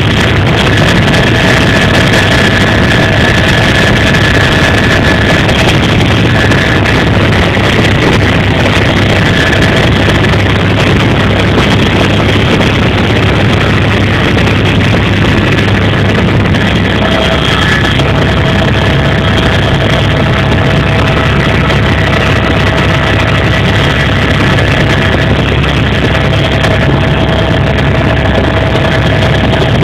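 Helicopter in flight: steady loud engine and rotor noise with a constant turbine whine, shifting slightly in pitch about seventeen seconds in.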